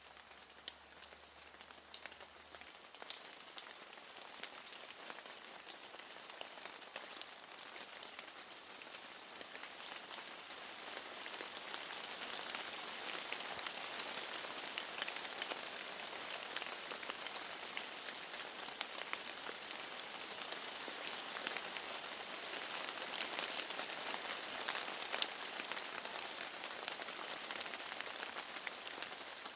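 Steady rain with a dense patter of individual drops, growing louder about ten seconds in.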